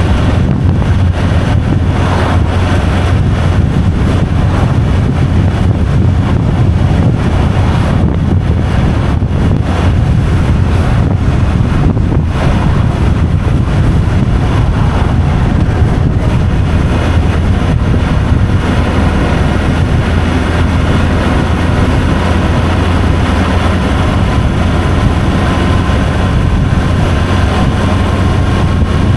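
Vehicle driving along a road: a steady, loud low rumble of engine and road noise with wind noise over it. A faint whine rises slowly near the end.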